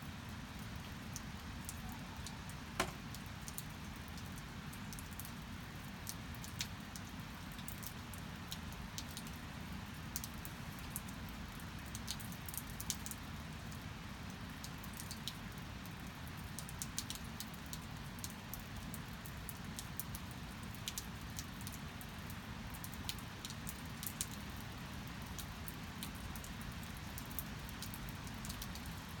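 Steady rain with many sharp drops ticking on a hard surface close by, one louder tap about three seconds in.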